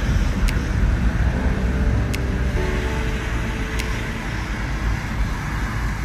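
Steady road-vehicle noise, a low rumble with a hiss of tyres and traffic, with faint music underneath.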